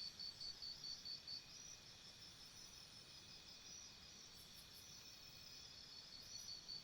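Faint crickets chirping in a steady pulsing rhythm, about five chirps a second; the loudest chirping stops about a second and a half in, leaving a fainter, steady chorus.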